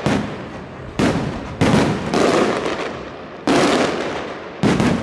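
Aerial firework shells bursting overhead: four loud, sharp bangs at uneven intervals, each dying away in a long rumbling echo.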